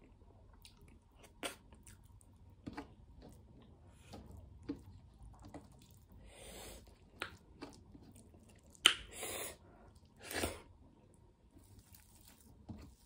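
Close-miked chewing and wet mouth clicks of a person eating maize rice with kinema and dry meat by hand. Toward the end there are two louder smacking mouth noises.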